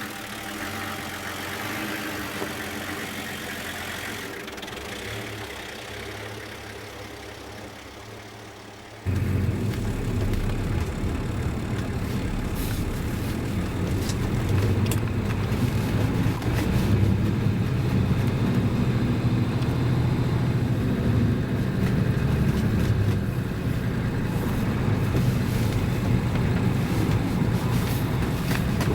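1982 Toyota Land Cruiser HJ60's 2H inline-six diesel engine running at a steady idle. About nine seconds in the sound switches abruptly to a louder, deeper, rougher engine rumble that holds to the end.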